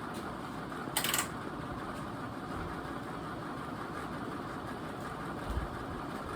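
NuTone Pro line ceiling fan running on its slowest speed with a steady whir. A sharp click comes about a second in, and a soft low bump near the end.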